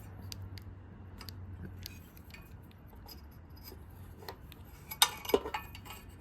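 Light metallic clinks and taps of hand tools and small metal parts being handled, with two sharper clanks about five seconds in, over a steady low hum.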